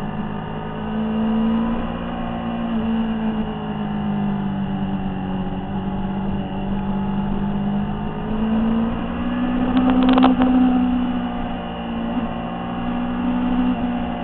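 Motorcycle engine running at steady road speed through bends, heard from the bike itself over wind noise, its note rising and falling a little. A brief louder noise cuts in about ten seconds in.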